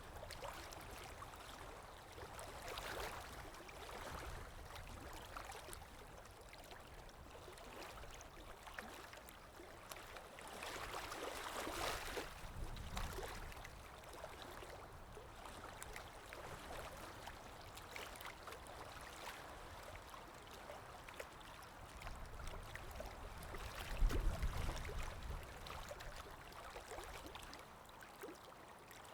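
Underwater water ambience: a continuous wash of moving water dotted with fine crackles, swelling now and then, with a louder low rumble about 24 seconds in.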